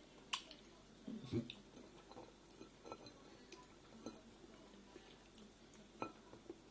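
A budgerigar drinking cola, its beak making a few faint, scattered clicks and taps against the container.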